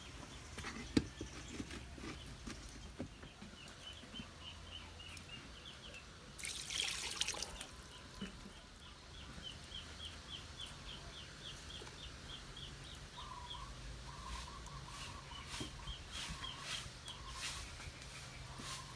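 Outdoor ambience with a bird chirping in quick repeated runs. A brief loud rush of noise comes about seven seconds in, and a series of light knocks or clicks follows in the last few seconds.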